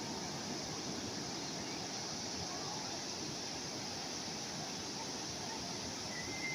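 Calm sea waves washing steadily and evenly, with a few faint high chirps, the clearest near the end.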